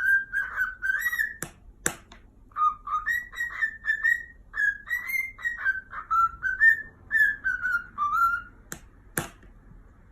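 A parrot whistling a string of clear notes that glide up and down, like a tune, then stopping about eight and a half seconds in. A few sharp clicks come between the notes and near the end.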